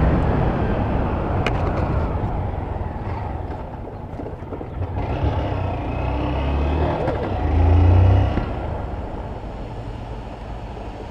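Honda Fan 160 single-cylinder motorcycle engine running under way on the road, rough and steady, with a brief rise in loudness about eight seconds in.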